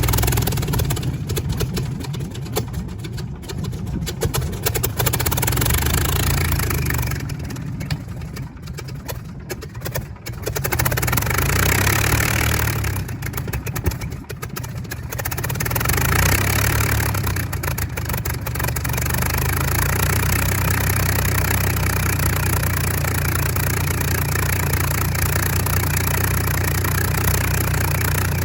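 Supermarine Spitfire Mk XIV's Rolls-Royce Griffon V12 running during a ground engine run. It is uneven for the first twenty seconds or so, swelling and dropping several times, then settles into a steady run.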